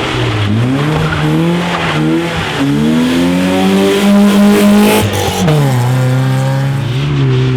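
Rally car under hard acceleration, its engine note climbing and dropping back as it shifts up through several gears. It is loudest about four to five seconds in, then the driver lifts off and the note falls and holds lower before rising again near the end.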